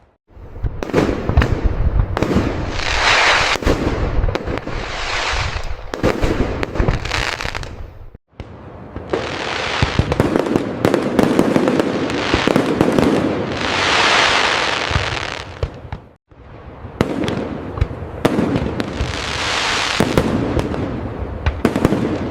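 Fireworks display: a dense, loud volley of sharp firework bangs and swelling aerial bursts. It breaks off for an instant twice, about 8 and 16 seconds in.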